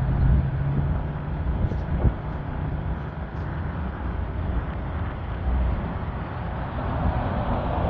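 Car driving at highway speed, a steady low rumble of road and engine noise. A hum sounds for the first second, and there is a short click about two seconds in.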